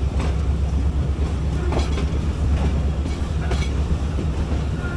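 Train running on the track: a steady low rumble, with the wheels clacking over rail joints or points about every second and a half.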